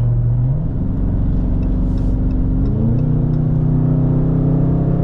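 Car engine heard from inside the cabin while driving, a steady drone that rises in pitch twice as the car speeds up, about half a second in and again near the middle.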